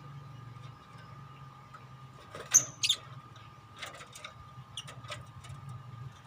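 Pet lovebirds calling: two sharp, shrill chirps about two and a half seconds in, followed by a few shorter chirps.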